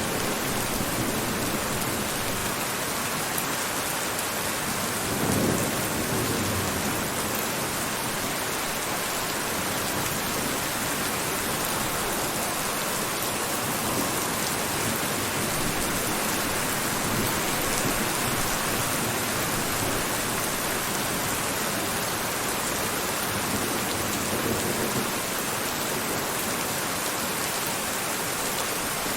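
Steady, dense rainfall. About five seconds in comes a brief low rumble, with a weaker one near the end.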